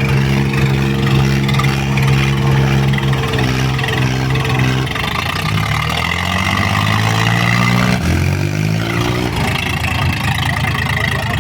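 Diesel tractor engine running hard at steady revs. About five seconds in the revs drop, then rise and fall twice before settling at a lower, steady speed.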